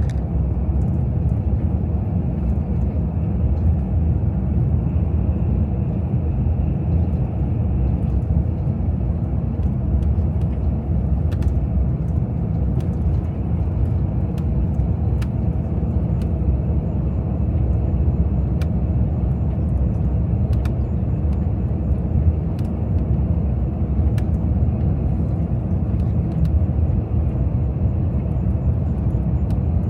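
Steady low rumble of a tour coach driving along the road, heard from inside the cabin: engine and tyre road noise, with a few faint ticks.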